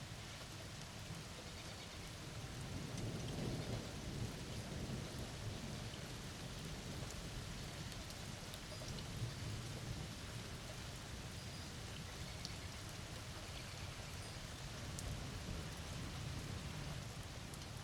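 Thunderstorm: steady rain with scattered drop ticks, and a low rumble of thunder that swells about three seconds in, then rolls on more softly.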